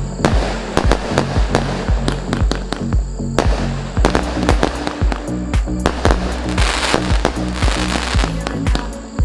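A 150-shot 20 mm fireworks cake firing, with sharp shots and bursts coming several times a second, over background music with a steady bass.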